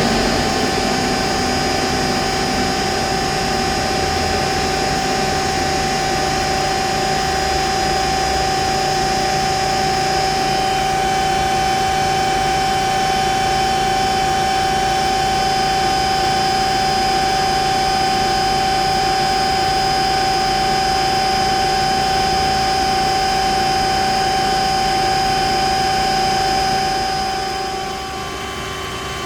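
HEM VT125HA-1 vertical tilt-frame band saw running steadily, with a constant machine tone over a noisy hum, dropping in level near the end.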